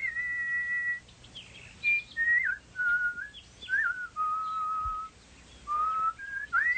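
A whistled, birdsong-like melody: a single clear tone moving through a series of held notes with short slides and little flourishes between them, pausing briefly a couple of times.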